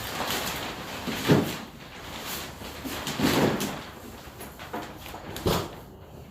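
Three separate thumps and clunks about two seconds apart, the first the loudest: a pickup truck's door being opened and shut.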